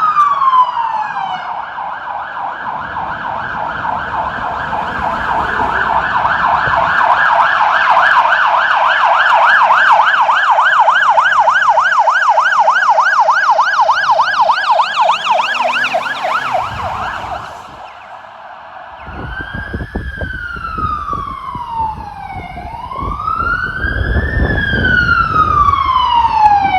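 Police car electronic siren: a slow wail falling at the start, then a fast yelp that cuts off abruptly about 17 seconds in, and after a brief lull the slow rising-and-falling wail starts again. Low vehicle and traffic rumble runs beneath.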